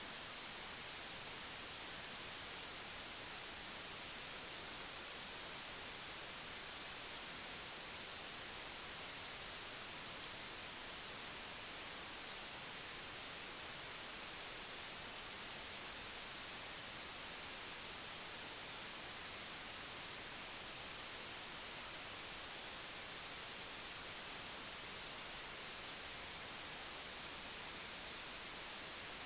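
Steady, even hiss, strongest in the upper range, with nothing else standing out.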